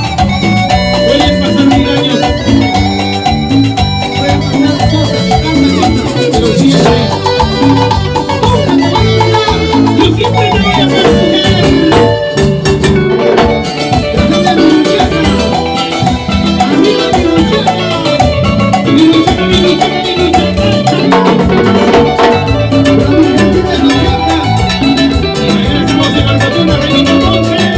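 A band playing Latin dance music, an instrumental passage with a steady percussion beat under bright melodic lines.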